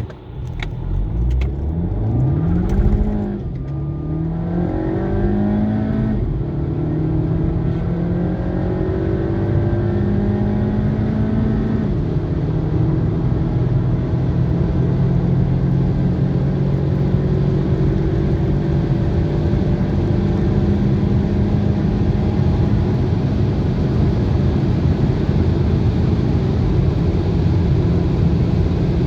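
Audi A3 8P 1.8 TFSI turbocharged four-cylinder petrol engine, Stage 1 tuned, accelerating at full throttle through the gears. The engine pitch climbs and drops at upshifts about 3, 6 and 12 seconds in, then rises slowly in a high gear, with steady road and wind noise.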